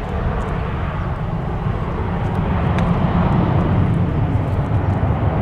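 Jet airliner taking off: a steady, deep rumbling engine noise that grows slightly louder about three seconds in.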